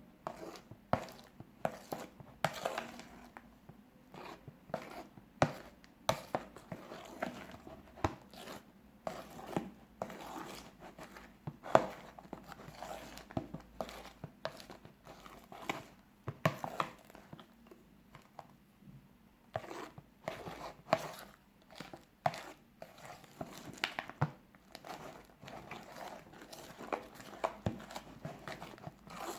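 Fluffy slime of clear glue and shaving foam being worked, making irregular sticky clicks, pops and crackles.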